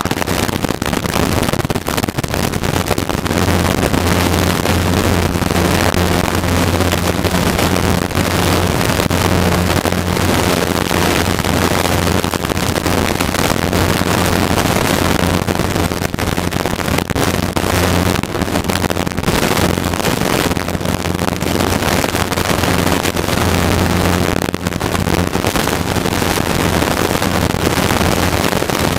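Helicopter engine and rotor running steadily, heard from inside the cabin as a continuous rushing noise with a low steady hum that strengthens a few seconds in.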